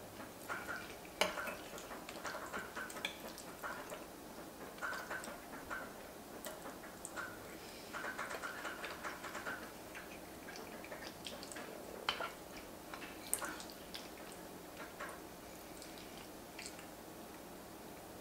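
Close-miked eating sounds: chewing a mouthful of creamy mac and cheese, with a few sharp clinks of a metal spoon against the ceramic baking dish.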